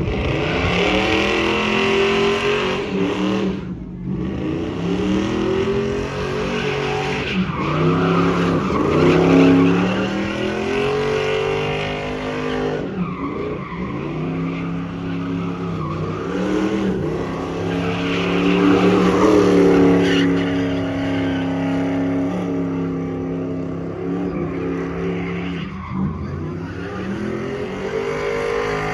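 Squatted GMC pickup truck doing a burnout: the engine is held at high revs, drops off and climbs again several times, with tyres squealing against the pavement.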